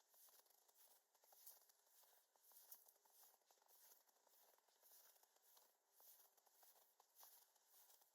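Very faint footsteps crunching in snow, an even walking pace of about two steps a second.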